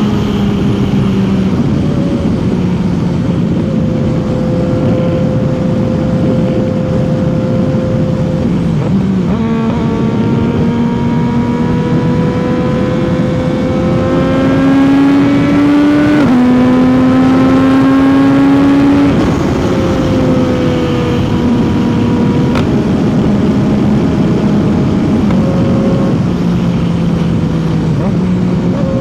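CFMOTO 675's inline three-cylinder engine and exhaust at highway speed, rising in pitch under throttle with a sudden drop at each upshift, about nine and sixteen seconds in. The engine is loudest just after the second shift, then eases off and settles, under a steady rush of wind and road noise.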